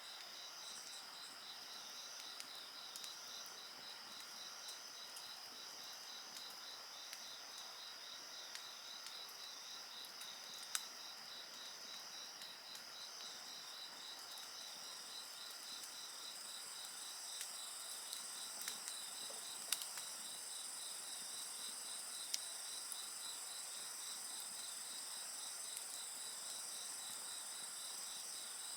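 Several insects calling together in steady, overlapping chirps and trills, one with an even pulsing rhythm; a higher trill grows louder about halfway through. A wood fire crackles underneath, with a few sharp pops.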